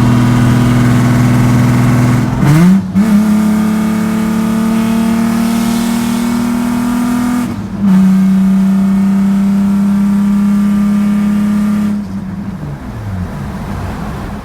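Nissan 300ZX's V6 running loud through its exhaust, which still has no muffler, heard from inside the car with the windows down. About two and a half seconds in there is a downshift and the engine note jumps up in pitch, then the car pulls with the pitch slowly rising. There is another brief break near eight seconds, and the note falls away near the end as the throttle closes.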